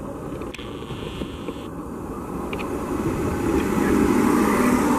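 Indian Railways EMU local train running alongside the platform, the rumble of its coaches growing louder as they pass close by. A low steady tone comes in near the end.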